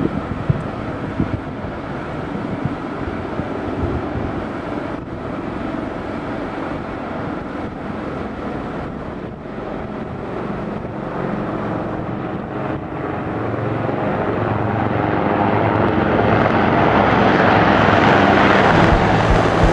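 Military aircraft engine and rotor noise, choppy and pulsing at first, then building to a loud, rising roar over the last several seconds as the aircraft closes in.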